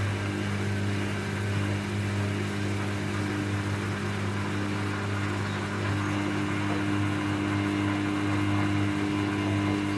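Samsung EcoBubble 8 kg front-load washing machine spinning its drum in the spin cycle: a steady motor and drum hum with a few constant tones.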